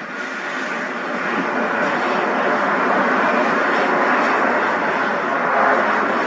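Airbus A310 MRTT jet engines running, a steady rushing jet noise that fades in over the first second or two and then holds.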